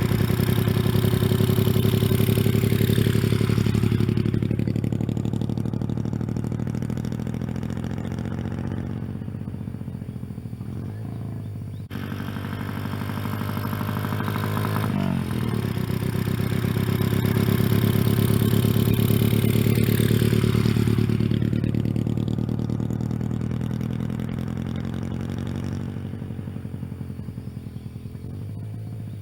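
Single-cylinder engine of a Honda Magna 88, with a 'Dodosuko' ignition controller making it run with a loping, Harley-like beat through a variable-volume muffler. The exhaust note swells loud and bright, then fades and dulls, twice, with a sharp break about twelve seconds in.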